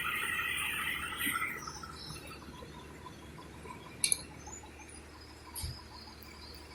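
Outdoor chirping from insects and birds, with one sharp click about four seconds in.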